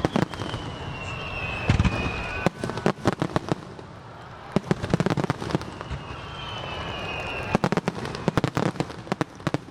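Aerial fireworks bursting: clusters of sharp bangs and crackling, with a high whistle that falls slightly in pitch heard twice.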